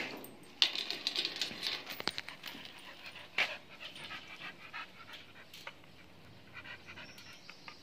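An animal panting rapidly, with a few sharp clicks, most busily in the first three seconds and fainter after.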